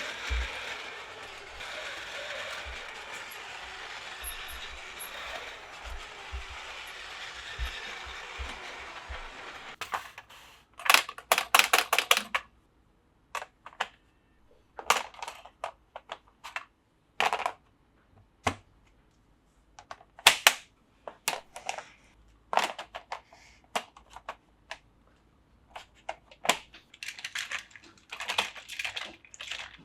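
A steady rushing noise for about the first third. Then irregular sharp plastic clicks and clacks, some single and some in quick clusters, as Plarail plastic track pieces and toy parts are handled and snapped together.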